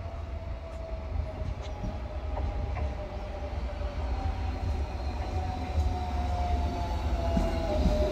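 Electric commuter train pulling into a station platform: its running rumble grows steadily louder as it nears. A steady whine slowly falls in pitch as the train slows.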